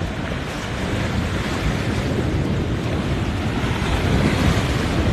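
Steady wind buffeting the microphone over the wash of sea water and surf.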